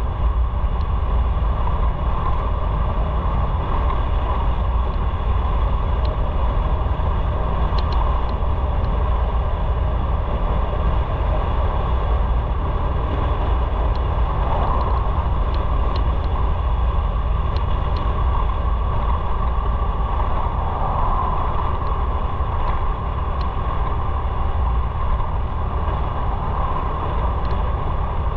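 Motorcycle running steadily at cruising speed, with a heavy, unbroken low rumble of engine and road noise.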